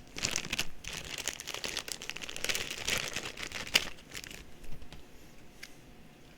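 Packaging crinkling and rustling in the hands as it is opened and unwrapped, for about four seconds, then dying down to a few faint ticks.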